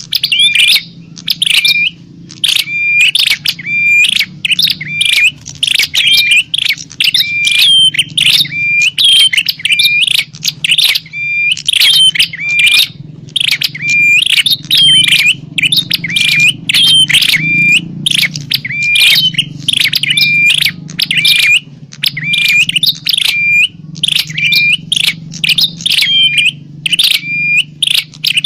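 Prinias (prenjak) giving rapid, noisy fighting calls: sharp chirps repeated several times a second without a break, as played to lure wild birds. A faint steady low hum runs underneath.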